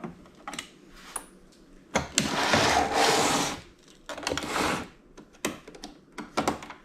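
Power drill backing out screws from the TV's plastic housing: the motor runs in a longer burst of about a second and a half, then a shorter one, with small clicks and knocks of the driver bit and plastic between.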